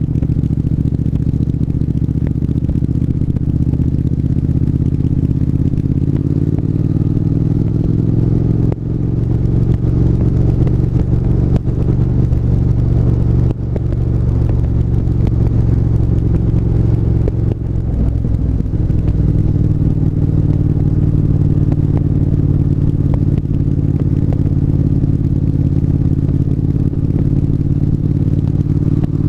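Triumph 1200 cc parallel-twin motorcycle engine running under way, a steady note with a rise in pitch about seven seconds in. The sound dips briefly three times, about 9, 14 and 18 seconds in.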